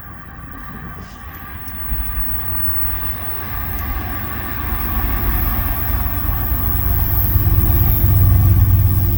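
Diesel freight locomotive approaching at the head of a train, its engine rumble growing steadily louder and peaking near the end.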